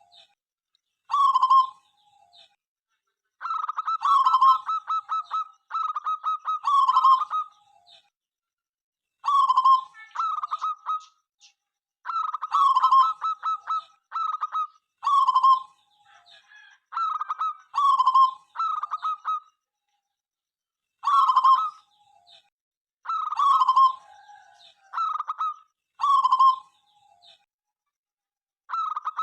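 Zebra dove (perkutut) song: repeated phrases of rapid, stuttering coos about a second or two long, with short pauses between them and some phrases running together.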